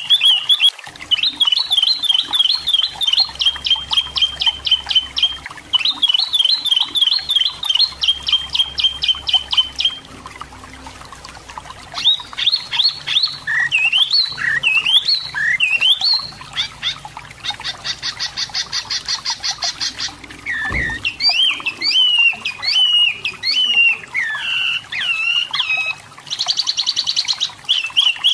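Striped tit-babbler (tepus lurik, "wambi mini") singing: fast trilled phrases and chattering runs of repeated notes, mixed with varied whistled notes, with a short pause about ten seconds in.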